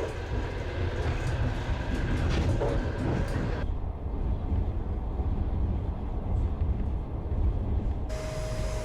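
Passenger train on the Baikal–Amur Mainline running along the track, a steady low rumble of wheels on rails. The sound turns duller about four seconds in, and a steady tone joins near the end.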